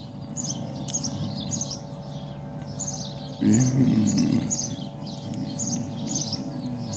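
Bird chirping repeatedly, short high chirps about two a second, over a steady hum. A brief low murmur comes about halfway through.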